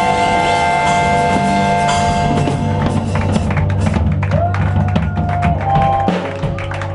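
Blues band playing the closing bars of a song: a held chord over drums, which gives way about halfway through to scattered drum hits.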